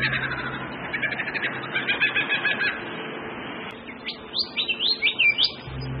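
Bird calls: a run of quick repeated chirps in the first half, then several sharp whistled notes that glide up and down, starting about four seconds in.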